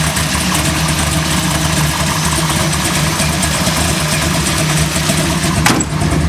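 Carbureted 496-cubic-inch big-block Chevy V8 (a stroked, bored 454) idling steadily through long-tube headers. A single sharp click sounds near the end.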